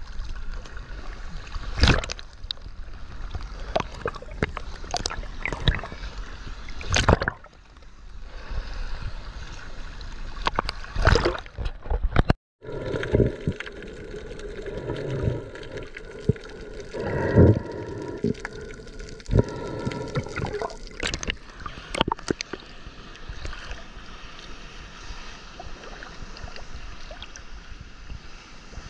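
Water of the Düden Waterfall rushing as a steady noise, broken by repeated sharp knocks and bumps on the microphone.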